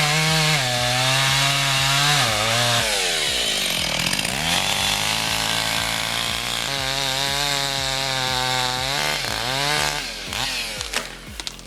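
Chainsaw running at high revs. Its pitch sags about three seconds in, as it bogs down in the cut, then picks back up and dips again near the end.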